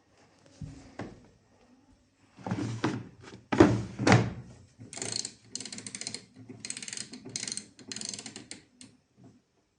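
Samsung Eco Bubble front-loading washing machine being handled: several heavy thunks, the loudest about three to four seconds in, then a run of quick clattering knocks.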